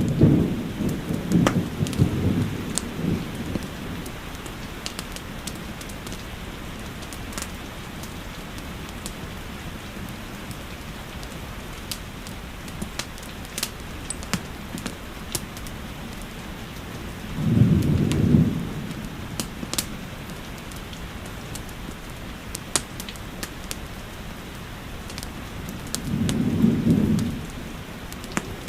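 Steady rain with the pops and snaps of a crackling fireplace over it, and three short low rumbles: near the start, about two-thirds through, and near the end.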